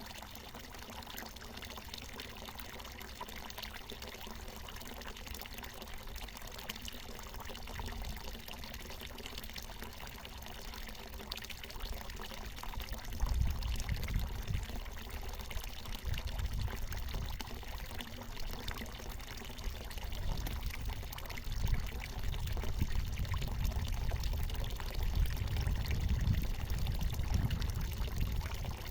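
Water pouring steadily from a natural mountain spring, splashing without a break. From about halfway through, irregular low rumbling comes in under the splashing.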